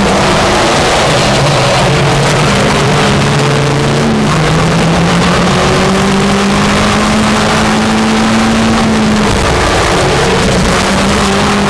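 Racing cars' engines running hard around the circuit, several engine notes overlapping. Their pitch holds and then drops and shifts, about four seconds in and again near the end, as the cars change gear or brake for corners.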